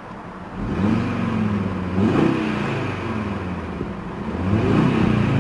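Audi RS Q3 Sportback's turbocharged 2.5-litre five-cylinder engine revved in RS mode while parked, in several blips whose pitch rises and falls, starting about half a second in with another rise near the end. The revs are held by a limiter around 4,000 RPM.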